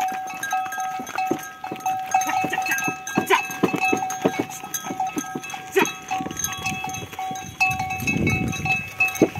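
Bells on the cattle drawing a cikar ox cart ringing steadily as they walk, over a run of quick knocks from hooves and the cart. A brief low rumble comes in about eight seconds in.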